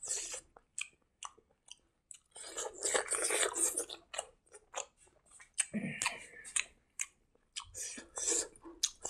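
Close-miked eating sounds of a person chewing a mouthful of rice: wet smacking and clicking in short bursts, with a denser stretch of chewing about two to four seconds in.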